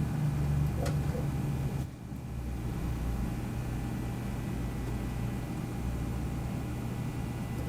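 Desktop PC running with its Seagate Exos X22 hard drive spinning: a steady low hum and whir, with a light click about a second in. The hum briefly dips and changes in tone about two seconds in, then runs on steadily.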